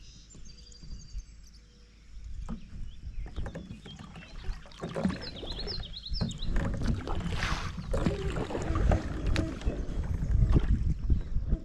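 Knocks and rubbing from someone moving about on a small fishing watercraft, growing louder and busier from about two seconds in. A bird chirps briefly about halfway through.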